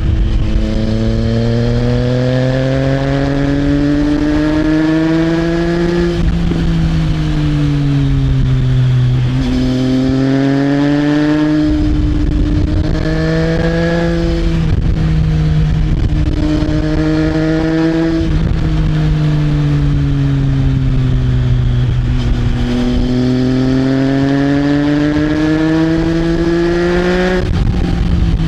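Triumph Trident 660's inline three-cylinder engine through an Arrow exhaust, revs climbing under throttle and falling off again several times, with a sudden drop in pitch near the end. Wind rushes on the microphone underneath.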